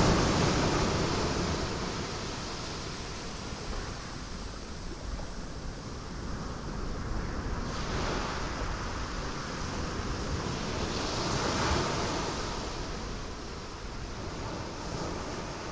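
Ocean waves breaking on rocks, a steady rush of surf that swells and eases. One wave fades out in the first couple of seconds, and the next surges are building about 8 seconds in and peaking near 12 seconds.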